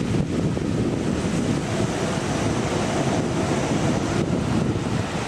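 Wind buffeting the microphone: a steady, loud, low rush that flutters irregularly.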